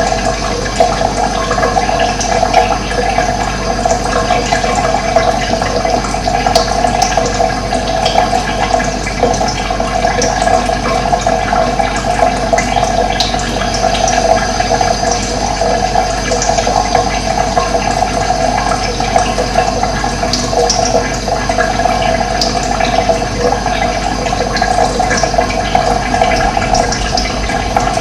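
Running water flowing steadily, an even, unbroken rush, with occasional short high chirps from birds over it.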